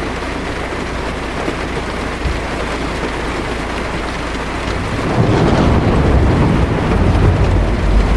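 Heavy rain drumming steadily on a car's windshield and roof, heard from inside the cabin. About five seconds in, a low rumble of thunder swells up and keeps rolling.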